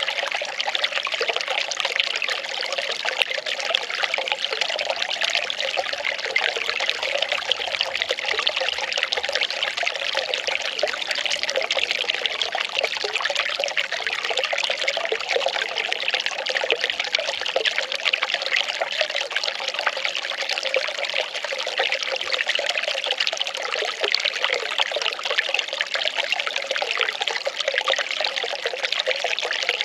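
Well water pouring and trickling steadily in a continuous stream.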